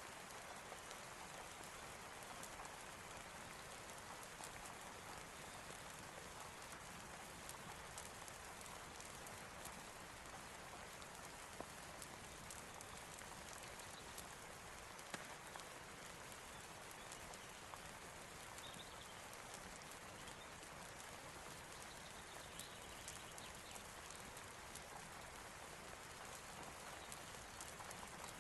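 Steady rain hiss mixed with a crackling fire: constant fine ticks throughout, with two sharper pops about 12 and 15 seconds in.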